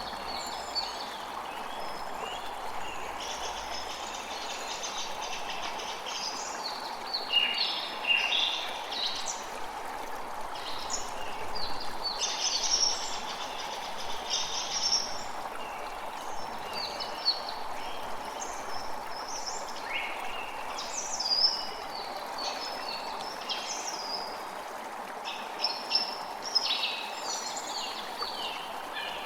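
Creek water running steadily, with small birds chirping over it in repeated clusters of quick high notes. The chirping comes loudest a few times, at about a quarter of the way in, near the middle and near the end.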